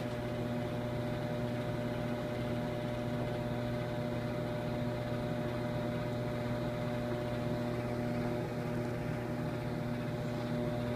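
Microwave oven running: a steady electrical hum with its fan, unchanging throughout.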